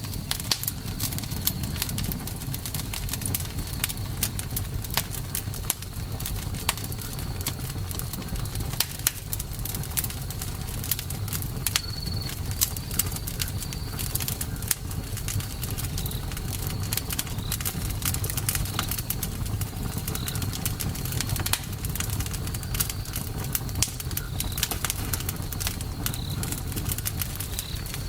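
Wood fire crackling, with constant irregular sharp pops and snaps over a low rumble of the flames. Short high whistles recur every second or two.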